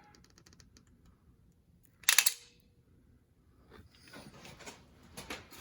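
Tool handling: a quick run of light clicks, one loud sharp snap about two seconds in, then scraping and rustling.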